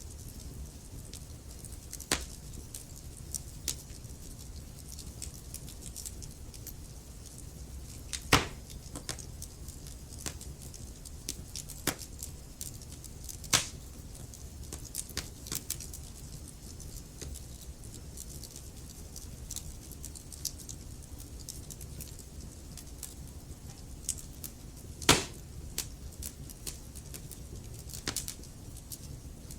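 Logs burning in a fireplace: scattered crackles and pops over a low steady rumble, with four louder, sharper pops spread through, the loudest near the end.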